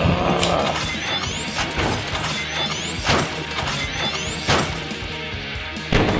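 Background music with cartoon sound effects laid over it: three rising whistle-like sweeps, each followed by a crash with a shattering ring, the last one near the end.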